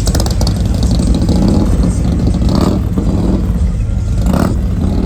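Muscle-car V8 engine running loud, revved in swells about every second and a half.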